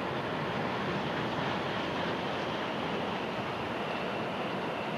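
Tohoku Shinkansen high-speed trains passing along an elevated viaduct at a distance: a steady, even rushing noise.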